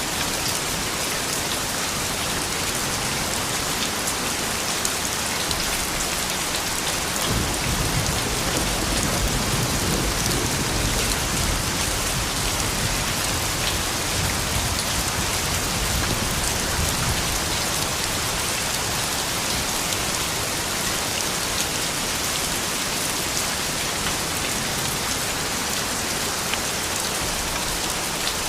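Steady, gentle rain falling on hard surfaces, with scattered individual drop ticks. A low rumble swells in about a quarter of the way through and fades out again past the middle.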